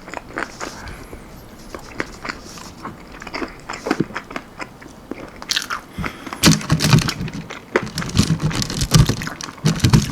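Close-up biting and chewing of crunchy almond-flour-breaded baked chicken wings: irregular crisp crackles and crunches, getting denser and louder in the second half.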